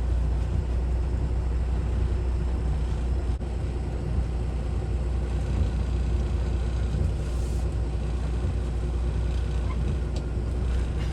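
Semi truck's diesel engine running steadily, a low, even engine sound with no change in speed.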